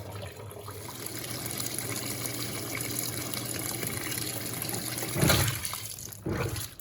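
Water rushing steadily into the drum of an Electrolux LTC07 top-loading washing machine as it fills, with a short knock about five seconds in.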